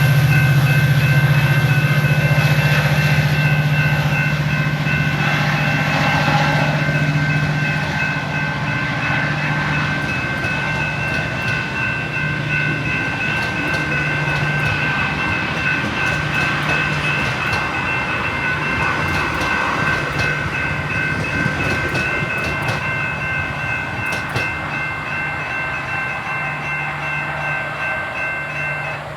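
A Metra commuter train with a diesel locomotive moving along the track, its engine hum and wheel noise slowly fading as it goes, with clicks of the wheels over rail joints. A steady high ringing runs alongside and stops just before the end.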